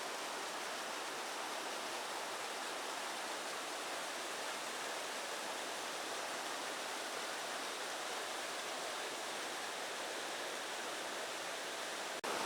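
Rushing water of a stream and waterfall: a steady, even rush with no distinct splashes, dropping out for an instant near the end.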